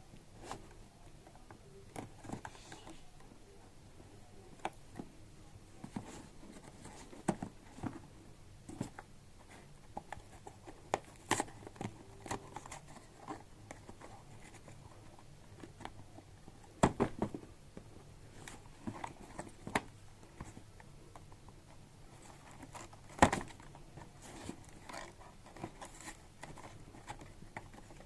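Hands handling a trimmer's box, packaging and parts: scattered clicks, taps and crinkling, with two louder knocks, one just past the middle and one later on.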